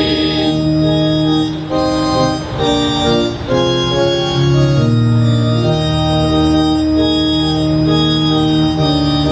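Organ accompaniment playing held chords that change every second or so, with a few brief gaps between chords near the start.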